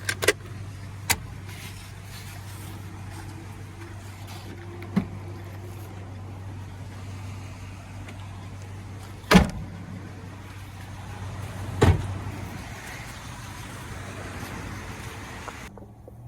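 Ford 6.2 L gas V8 of an F-250 Super Duty idling with a steady low hum. Several sharp knocks cut through it, the loudest about nine seconds in and another near twelve seconds.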